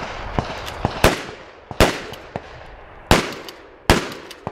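Shotguns firing slugs in a two-shot drill: four loud blasts, each with a long echoing tail, about a second in, near two seconds, past three seconds and near four seconds. Fainter sharp cracks fall between them.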